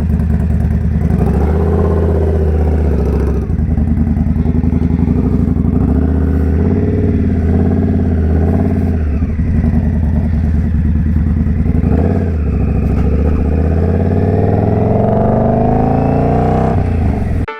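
Indian Scout Bobber's V-twin engine pulling away and accelerating up through the gears, with a brief dip in engine note at each shift and a long rising rev near the end.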